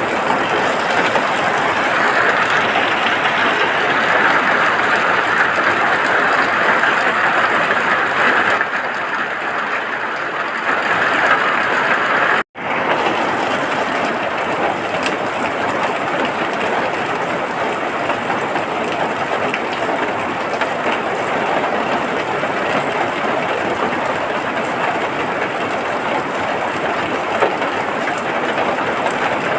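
Steady rain falling, an even, dense hiss. A little past the middle it cuts out for an instant and comes back with a slightly changed tone, like a splice between two recordings.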